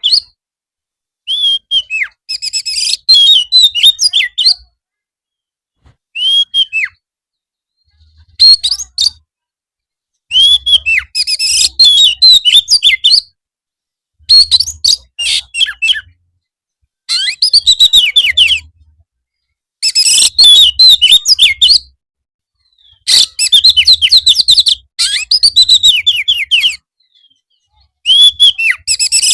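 Oriental magpie-robin (kacer) singing loud, rapid phrases of fast, mostly down-slurred notes and chatter, in bursts of one to three seconds with short silent gaps between them.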